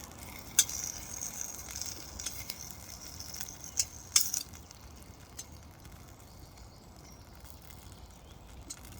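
Potatoes frying in a pan over a campfire: a quiet, high-pitched sizzle that is strongest in the first few seconds, with a few sharp clicks.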